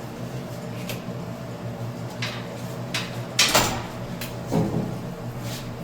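A few scattered knocks and clunks of items being handled and set down, likely cabinet or bathroom items being put back, the loudest about three and a half seconds in, over a steady low hum.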